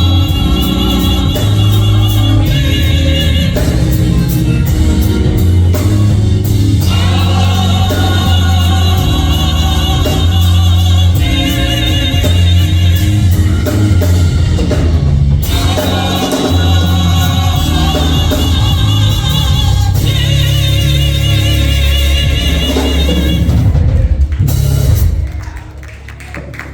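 Gospel choir singing over a church band with drum kit, loud and sustained. The music ends about a second before the close.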